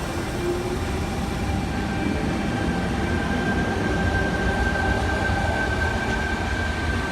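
Sydney Trains Tangara electric multiple unit pulling out and running past with a continuous rumble. A steady high whine joins in about a second and a half in and holds.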